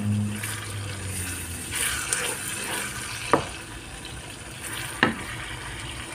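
Beef mince frying in oil in a pan, sizzling softly while it is stirred with a wooden spoon. The spoon knocks sharply against the pan twice, about three and a half and five seconds in. The mince has been fried down until its oil separates.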